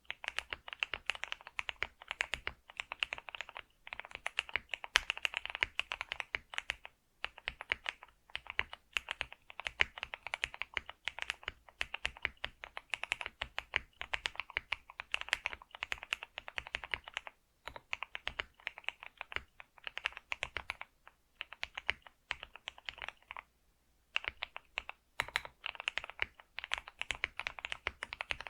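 Computer keyboard being typed on: fast, continuous key clicks in runs, with brief pauses between bursts.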